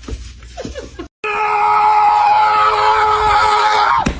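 A loud scream-like cry held at one steady pitch for almost three seconds, starting after a brief silent cut about a second in and stopping abruptly near the end.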